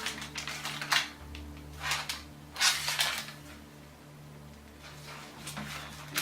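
MRE plastic pouches and the flameless ration heater bag being handled: scattered crinkles, taps and clicks, a handful of short bursts over a faint steady hum.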